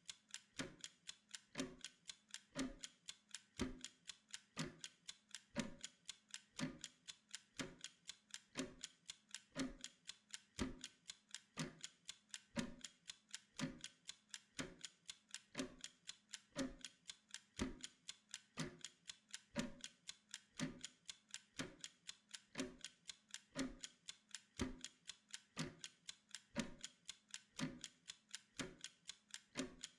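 Mechanical kitchen timer ticking rapidly and evenly, counting down a Pomodoro work interval.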